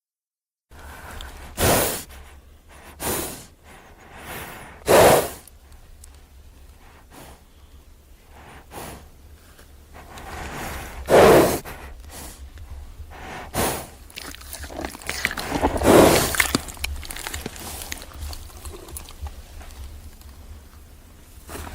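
A horse breathing, with about half a dozen loud, pitchless exhalations through the nostrils at uneven intervals, over a steady low hum.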